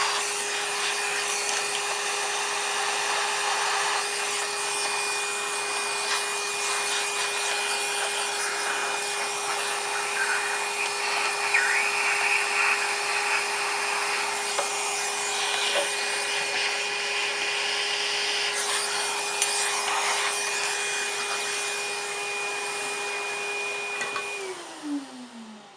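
Numatic cylinder vacuum cleaner running with a steady whine while its nozzle scrapes and rubs over the underside of a vintage Hoover upright. Near the end it is switched off and the motor spins down, its whine falling in pitch.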